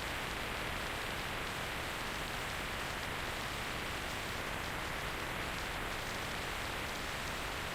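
Steady, even rushing hiss of wind and road noise picked up while riding a motorcycle, with no engine note standing out.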